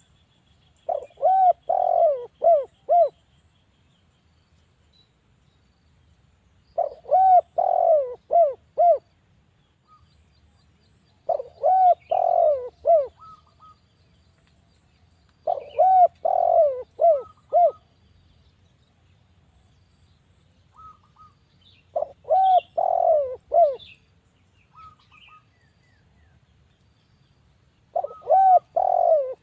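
Spotted dove (derkuku) cooing in six repeated phrases. Each phrase is a run of about five rising-and-falling coos lasting about two seconds, repeated roughly every five seconds.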